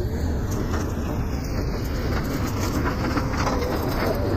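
Vehicle on the move: a steady low rumble with a scatter of short clattering rattles.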